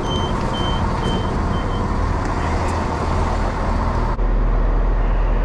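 Passenger train running, a steady rumble, with a run of about five short high beeps in the first two seconds. About four seconds in, the sound cuts to a steadier, lower train hum.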